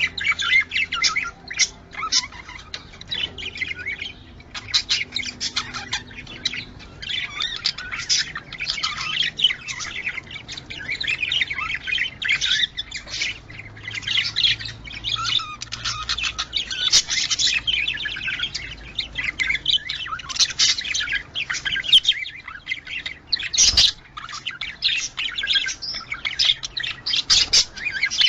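Budgerigars chattering continuously in fast, overlapping chirps, warbles and squawks. There is one sharp knock about two-thirds of the way through.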